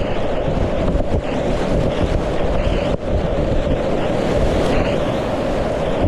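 Rushing whitewater from a river rapid, a loud, steady churning noise, with wind buffeting the microphone.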